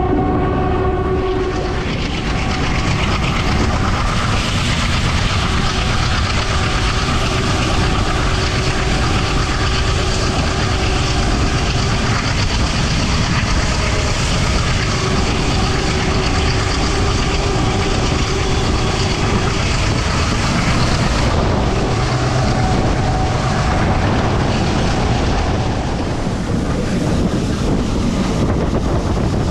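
Moving passenger train: a steady rumble of wheels on the track, with a train horn sounding at the start and cutting off about a second and a half in.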